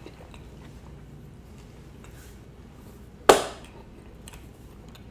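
A single sharp knock about three seconds in, with faint small clicks around it.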